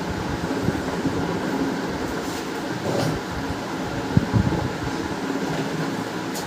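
Steady background hum with a few light clicks and knocks, about three and four seconds in, from handling laser printer parts during reassembly.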